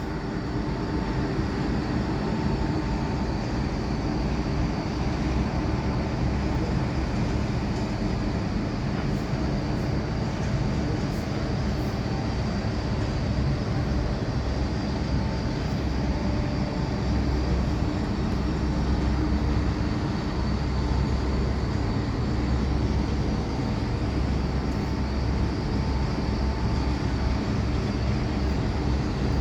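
Steady, unbroken rumble of heavy machinery, strongest in the low end, with a few faint steady hum tones over it.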